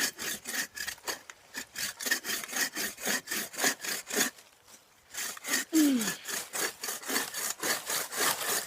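Fiskars hand saw cutting through a bay tree trunk in quick back-and-forth strokes, about four a second. The strokes pause briefly about four and a half seconds in, with a short falling tone just after, then carry on.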